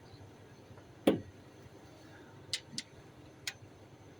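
Metal tools clinking against engine parts: one sharp knock about a second in, then three light ticks.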